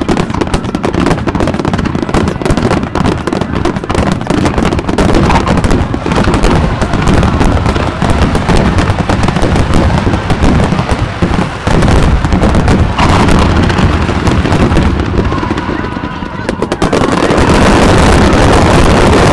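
Fireworks finale: a dense, rapid barrage of aerial shell bursts and crackling, bang after bang with no gaps. Near the end the separate bangs give way to a steady, even rushing noise.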